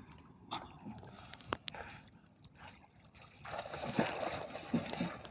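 Water splashing and trickling, with scattered sharp knocks and clicks, then a denser rush of splashing over the last couple of seconds.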